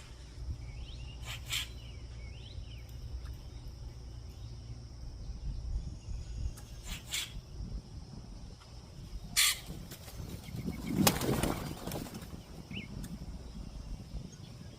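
Dove wings flapping in several short flurries, the longest and loudest about eleven seconds in, with a few faint bird chirps.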